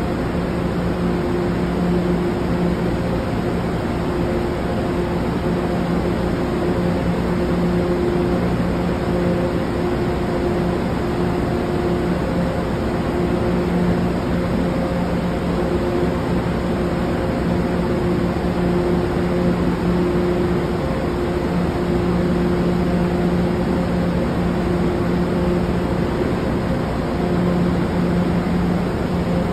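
MBTA Commuter Rail bilevel train standing at the platform, its onboard machinery giving a steady mechanical hum over an even rumble.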